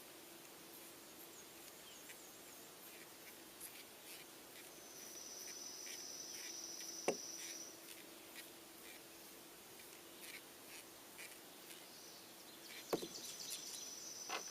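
A faint, high steady insect trill that starts about five seconds in, stops before eight seconds, and comes back near twelve seconds, over a faint low hum. There is a sharp click about seven seconds in and a few more clicks near the end.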